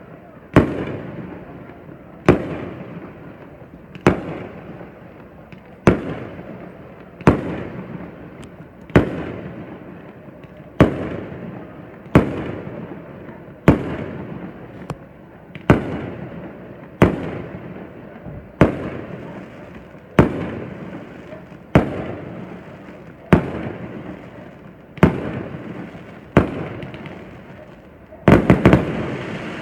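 Fireworks bursting in a steady sequence of loud bangs, about one every second and a half, each followed by a rumble that dies away. Near the end several bangs come in quick succession.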